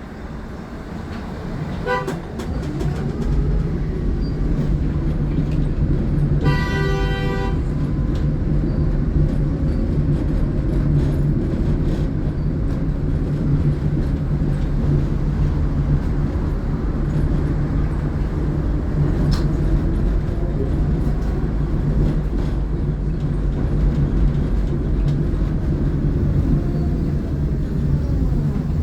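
Tatra T6B5SU tram under way: a steady hum of its motors and wheels on the rails, getting louder over the first few seconds. About seven seconds in, its warning signal sounds once, briefly. Near the end the pitch falls as it slows.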